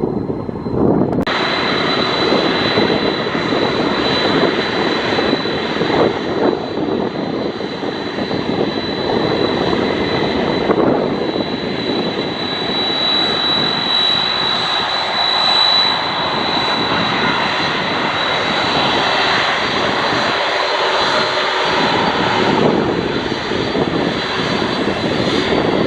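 Jet engines of a Boeing 747-400 freighter running loud and steady, a broad rushing noise with a high whine on top. The whine and hiss come in abruptly about a second in.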